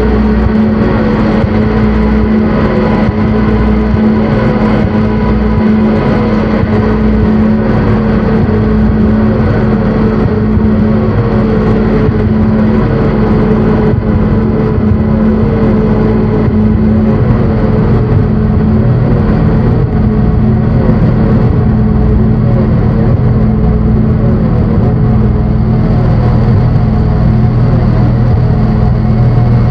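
Dense electronic drone music from synthesizers: sustained low tones over a noisy rumble, with a short falling chirp repeating about once a second. A lower drone note grows louder about halfway through.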